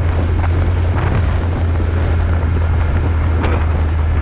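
Suzuki motorcycle engine running at a steady cruising speed, a constant low drone, with wind buffeting the microphone.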